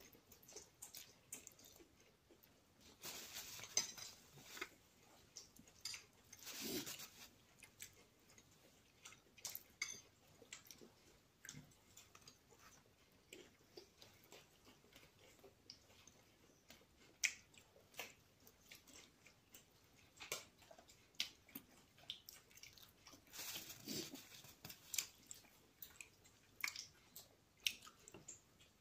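A person chewing and biting into a soft apple beignet, close to the microphone: quiet, irregular wet mouth clicks, with a few louder noisy moments about 3, 7 and 24 seconds in.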